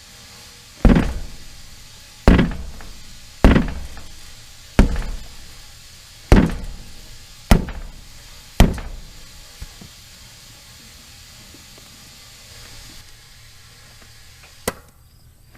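Sledgehammer blows on an inflated tractor tire and its rim, hitting to seat the tire's bead: seven heavy thuds about one every 1.2 seconds, each ringing off, then a single sharp click near the end.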